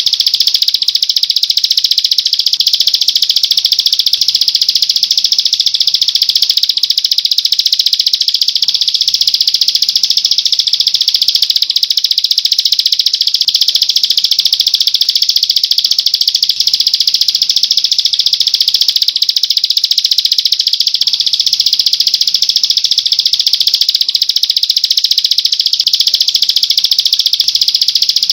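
Bird-song training recording: a rapid, high-pitched buzzing trill, held without a break at an even level.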